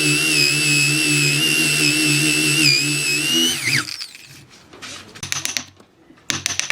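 An electric power tool running at speed with a steady high whine that wavers slightly under load. About four seconds in, it is switched off and winds down with a falling whine. Scattered knocks of the work being handled follow, with a short burst of noise near the end.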